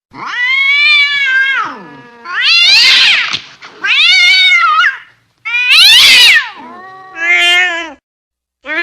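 A domestic cat's angry yowling (caterwauling): about five long drawn-out wails one after another, each rising and then falling in pitch, with another starting right at the end.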